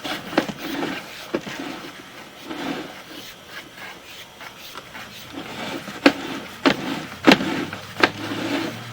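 Sewer inspection camera's push cable being drawn back through the pipe: repeated rubbing strokes, with several sharp knocks in the second half.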